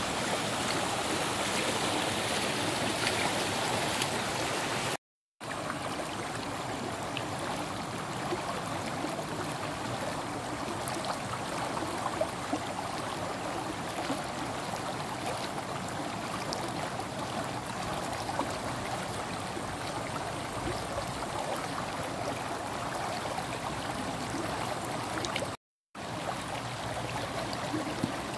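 Flowing water in a rice-field irrigation channel, a steady rushing, cut off twice by brief gaps of silence, about five seconds in and near the end.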